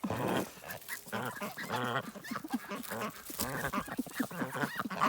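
A flock of domestic waterfowl calling repeatedly, many short pitched calls overlapping one another.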